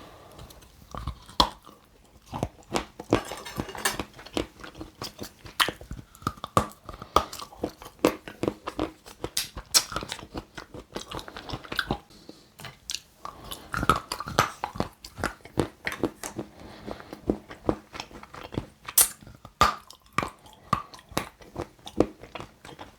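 Close-miked chewing and biting of a hard, crunchy white chocolate treat topped with white chocolate spread: a steady run of sharp crunches and crackles, several a second. The food is hard enough that chewing it feels like breaking teeth.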